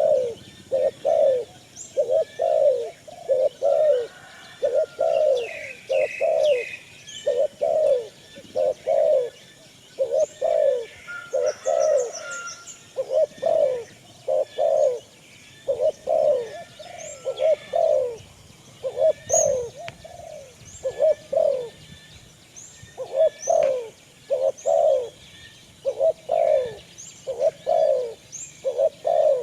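Pigeons cooing in a steady run of short, low calls, about two a second, with smaller birds chirping high and thin over them.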